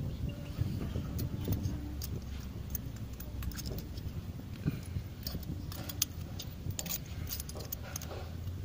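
Light metallic clinks and rattles of small metal tools and brake parts being handled, irregular and busiest near the end, over a steady low hum.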